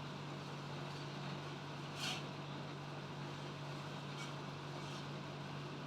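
A steady low mechanical hum, with a brief soft noise about two seconds in and a fainter one about four seconds in.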